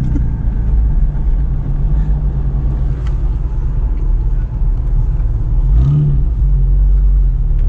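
Four-wheel-drive vehicle's engine running with a steady low drone while driving, heard from inside the cabin.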